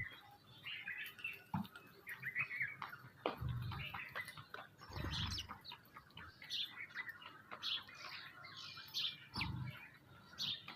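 Birds chirping: many short, quick chirps overlapping, with a few dull low thumps.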